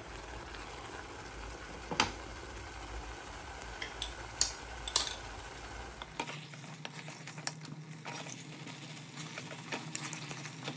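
Marinated chicken in thick red masala sizzling in a metal pot on high flame, being stirred and scraped with a spatula. A few sharp metal clinks in the first half, then a steady crackle with small scraping ticks.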